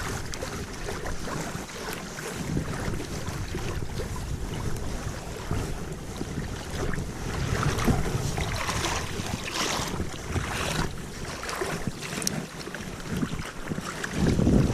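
Wind buffeting the microphone in gusts, over the rush of flowing creek water.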